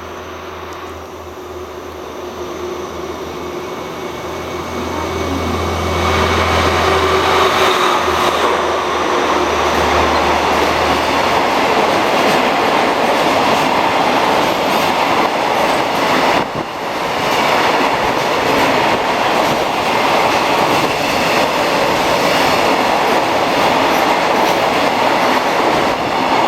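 A DF200 diesel-electric locomotive passes hauling a freight train: its engine's low drone builds over the first several seconds and drops away. It is followed by the long, steady rolling noise of the container wagons' wheels on the rails.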